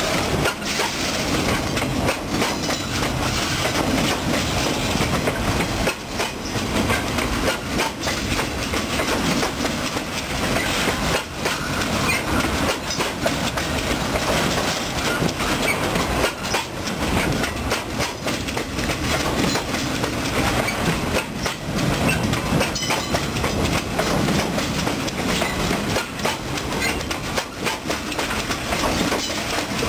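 Freight train of loaded flatcars rolling past, its steel wheels clattering over the rail joints in an unbroken run of clicks and knocks.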